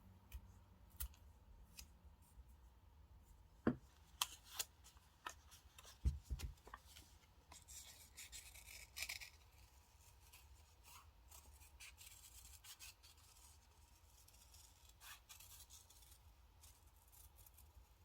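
Quiet paper-crafting sounds at a desk: a run of sharp snips and clicks a few seconds in, then soft paper rubbing and rustling.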